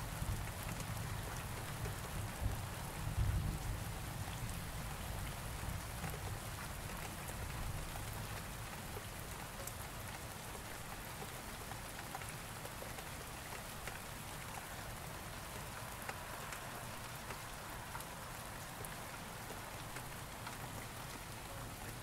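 Steady rain falling, an even hiss with fine scattered drop ticks. A low rumble of thunder dies away over the first few seconds, leaving only the rain.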